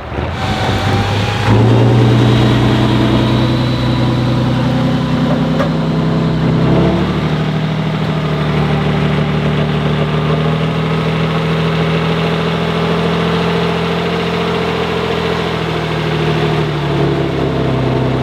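A heavy off-road trial truck's engine running steadily and loudly. The engine note shifts slightly about seven seconds in and again near the end.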